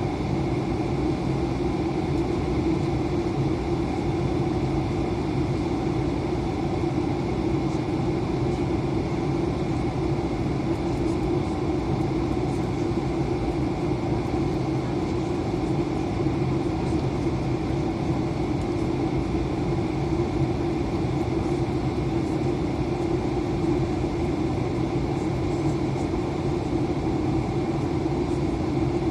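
Steady cabin drone inside an Airbus A320 airliner: an even rush of noise with a low hum and a few steady tones.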